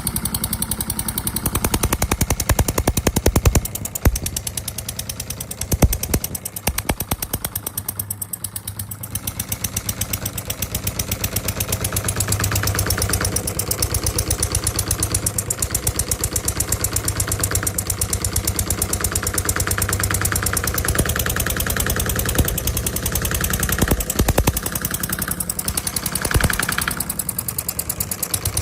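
Small model diesel engine from a D16 kit running with a rapid, even firing knock. It eases off and quietens a few seconds in, then picks back up to a steady run.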